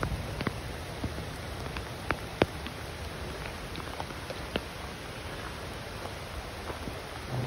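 Steady rain hissing, with scattered sharp taps of single drops striking close by; two of the taps, about two seconds in, are the loudest.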